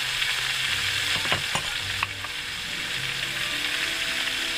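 Chicken feet frying in a hot wok, a steady sizzle, with a few clicks between one and two seconds in.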